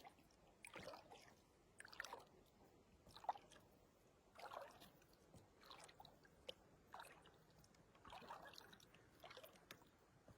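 Faint paddle strokes in lake water from a small paddled boat, a soft swish and splash about every second and a bit.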